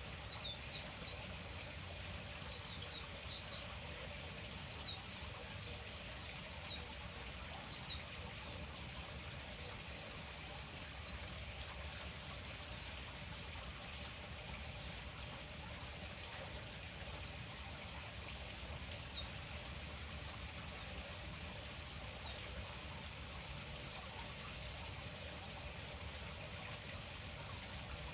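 A small bird calling: a string of short, high chirps, each dropping in pitch, one or two a second, thinning out and stopping about two-thirds of the way through, over a steady background hiss.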